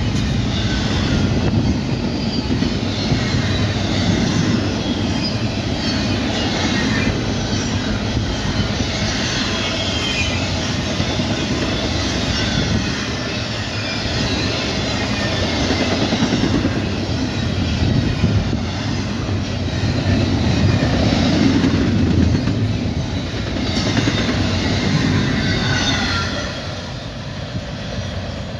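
Cars of a CSX freight train rushing past at about 70 mph: a steady, loud rumble of steel wheels on rail with clickety-clack over the joints and high, falling wheel squeals now and then. The noise eases slightly near the end.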